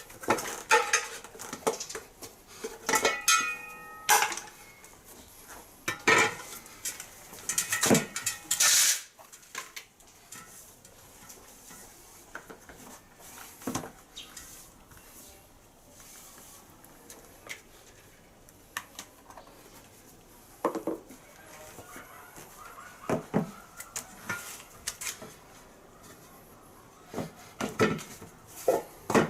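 Metal tools and parts clinking and clattering during a tyre change, with sharp knocks and a metallic ring about three seconds in. A short loud hissing burst comes about eight seconds in, then occasional clinks.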